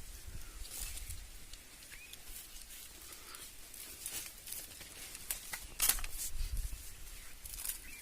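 Scattered short rustles and crackles, a few sharper ones in the second half, over a low rumble.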